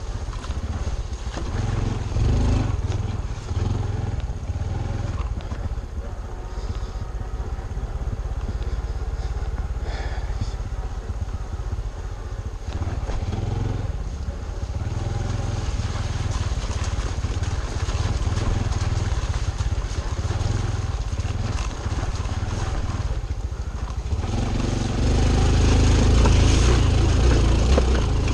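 Honda Trail 125 (CT125) motorcycle's single-cylinder 125 cc four-stroke engine running while riding, the engine note rising and growing louder near the end as it pulls harder.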